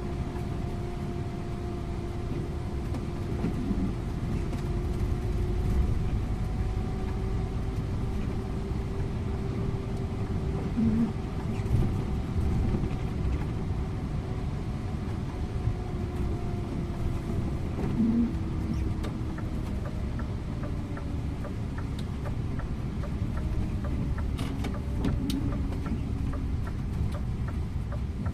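Scania InterLink bus heard from the driver's seat while driving: steady engine and road rumble with a faint whine that drifts slowly up and down in pitch. A few sharp clicks come near the end.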